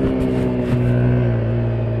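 2017 KTM 125 Duke's single-cylinder four-stroke engine running under way, heard from the rider's helmet. Its note falls slowly as the revs drop, with a short click or two near the start.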